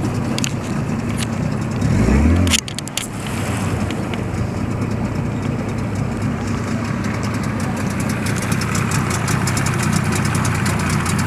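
Zongshen T30 hp outboard motor running steadily. About two seconds in, its pitch rises briefly and then falls back suddenly with a few sharp clicks, after which it runs evenly at a lower, steady note.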